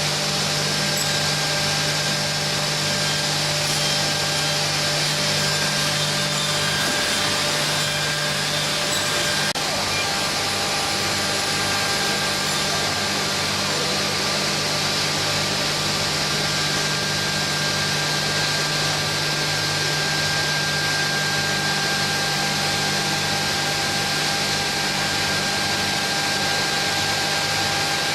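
CNC door-frame grooving line running: steady machine noise of motors and cutters, with a continuous hum, several held whining tones and a low pulsing throb.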